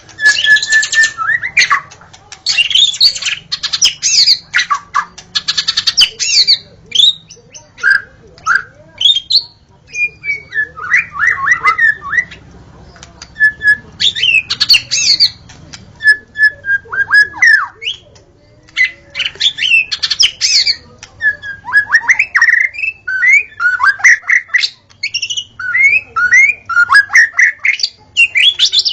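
White-rumped shama (murai batu) singing a fast, varied song of whistles, chirps and rattling trills, in short phrases with brief pauses between them.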